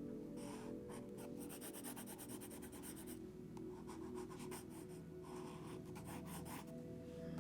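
Sketching strokes on paper: runs of quick, scratchy hatching strokes with short pauses between them.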